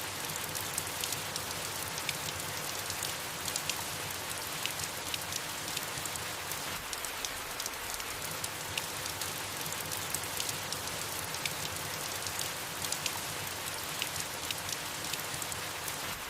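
Steady rain falling on leaves, an even patter with many small drop ticks.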